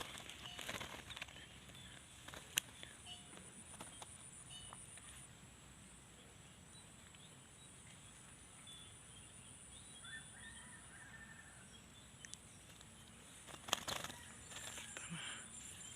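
Quiet outdoor ambience with a few faint, short bird chirps and a steady high tone. Sharp clicks about two and a half seconds in and a cluster of them near the end.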